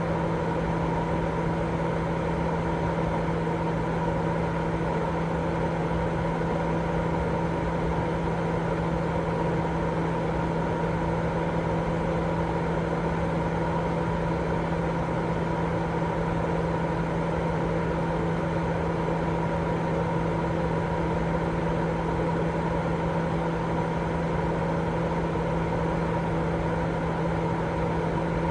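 Continuous sleep-aid noise: a steady, unchanging rushing hiss weighted toward the low and middle range, with a steady low hum and fainter higher tones running through it.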